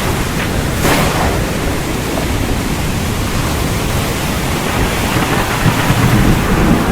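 Recorded heavy rain pouring steadily with thunder: a sharp crack about a second in and low rumbling building near the end.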